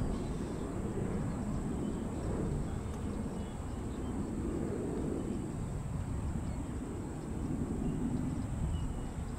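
Low, steady rumble of a distant airliner's jet engines, swelling slightly in places, as a jet spools up for its takeoff roll.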